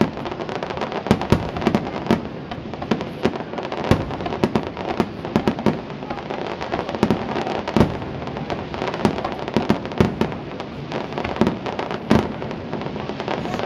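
Aerial firework shells bursting in a rapid, irregular run of sharp bangs, with crackle between them.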